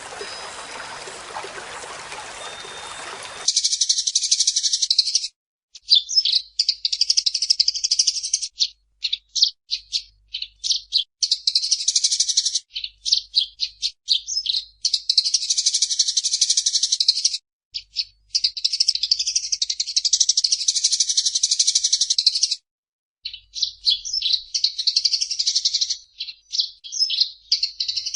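Eurasian tree sparrow chattering: rapid, high chirps run together in bouts of one to four seconds with short breaks between them, after a few seconds of steady hiss at the start.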